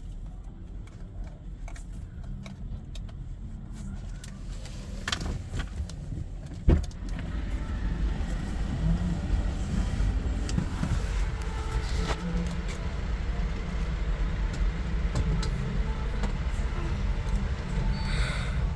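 Low rumble of a car's engine and road noise heard from inside the cabin while driving. A single sharp knock comes about seven seconds in, and the rumble grows louder and fuller after it.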